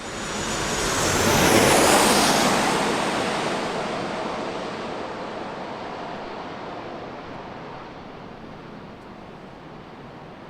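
Jet airliner passing close by. The engine noise swells to a peak about two seconds in, with a high whine falling in pitch, then slowly fades away.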